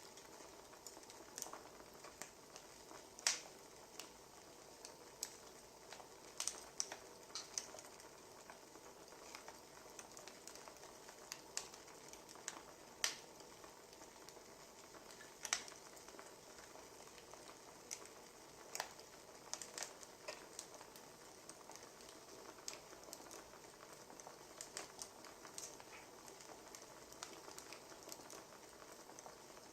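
Wood fire crackling: a low steady hiss with irregular sharp pops and snaps of burning firewood.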